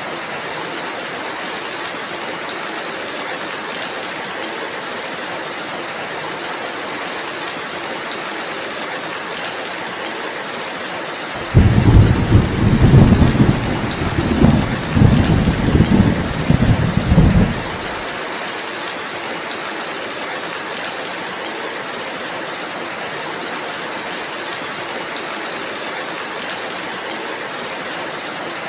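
Steady rain, with a deep thunder rumble that breaks in suddenly about eleven seconds in and rolls on in several surges for about six seconds before fading back into the rain.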